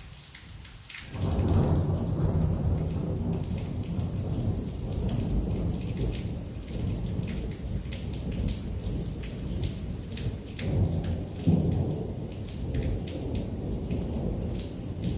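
Heavy rain falling with thunder. A loud low rumble of thunder breaks in suddenly about a second in and keeps rumbling, swelling again near the end, over the steady ticking of raindrops.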